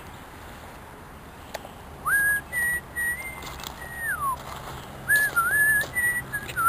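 Someone whistling a tune: two phrases of held notes, each ending in a falling slide.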